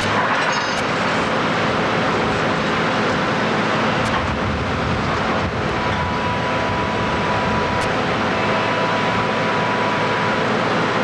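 Steady mechanical noise of heavy machinery running, with a thin high tone that comes in about halfway through and fades near the end.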